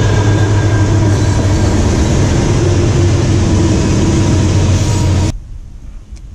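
Diesel locomotives of a freight train crossing a railroad bridge close overhead: a loud, steady engine drone with rail noise. It cuts off suddenly a little after five seconds in, leaving only quieter outdoor sound.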